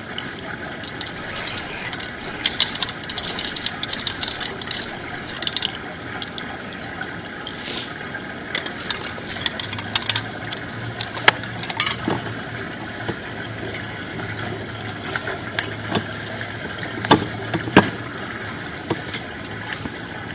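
Scattered sharp clicks and knocks over a steady background, like equipment being handled, with a stretch of hiss for the first few seconds and a low steady hum through the middle.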